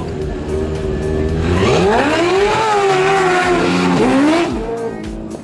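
An engine revving: its pitch climbs sharply from about one and a half seconds in, holds high, then drops back around four seconds.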